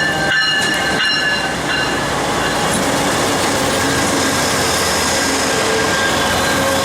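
Amtrak Southwest Chief passenger train rolling along the station platform: a steady rumble of wheels on rails. High, steady squeals from the wheels sound most strongly in the first second or two, then fade.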